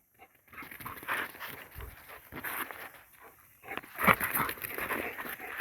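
A dog at play making irregular scuffling and snuffling noises, louder from about four seconds in.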